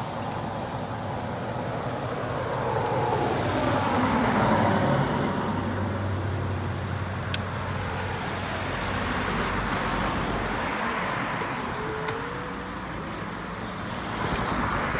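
Street traffic noise: a motor vehicle passes close by, loudest about four seconds in, its pitch falling as it goes past, over a steady background of road noise.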